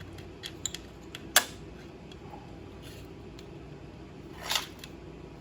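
Small metal clicks of bolts and hand tools being handled during motorcycle engine teardown, with one sharp clink about a second and a half in and a short scrape near the end.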